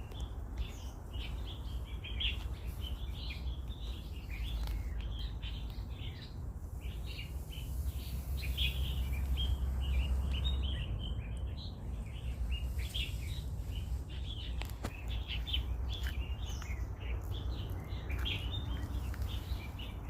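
Birds chirping all through, with many short, high calls overlapping one another, over a low steady rumble.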